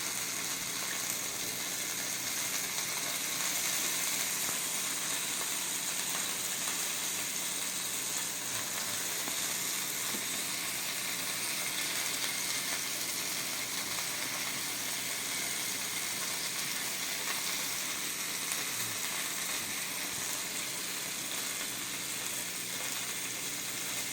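Chicken frying in a pan, sizzling steadily as it browns.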